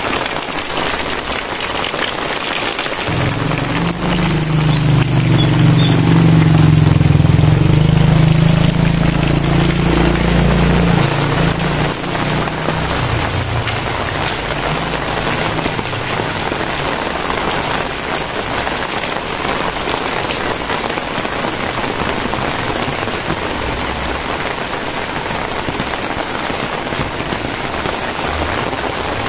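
Heavy rain falling steadily. From about three to eleven seconds in, a low rumble swells and then fades beneath it.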